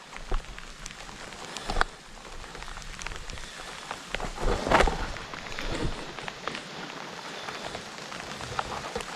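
Heavy rain falling, with many sharp drop ticks close to the microphone and a louder rough noise near the middle.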